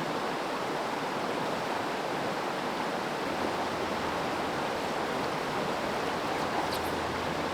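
River water rushing over rocks through fast rapids: a steady, unbroken rush.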